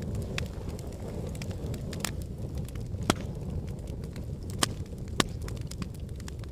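Wood fire crackling and popping in a fireplace: a steady low rumble of burning logs with irregular sharp snaps, the loudest about three seconds in and twice more near the end.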